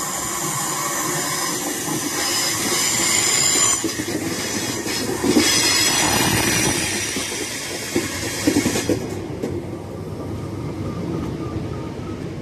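Northern passenger train running in alongside the platform: wheels squealing high with a steady hiss, and a few clacks over rail joints about five and eight seconds in. The squeal and hiss drop away about nine seconds in, leaving a lower rumble.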